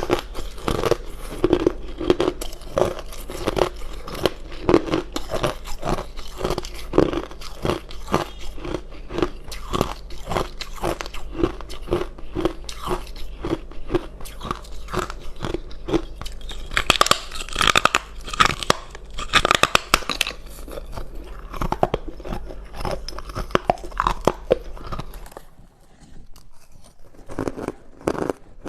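Ice being bitten and chewed in a rapid run of crunches. The crunching gets louder and sharper about two thirds of the way through; near the end a steady low hum stops and the crunches become fewer and quieter.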